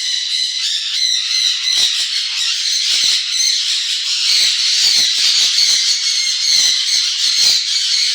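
A flock of small parrots, lovebirds and sun conures, squawking and chattering together in a continuous high-pitched din, with scattered short knocks underneath.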